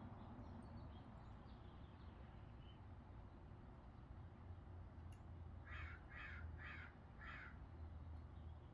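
A bird calling four times in quick succession, about half a second apart, over a faint steady low background rumble.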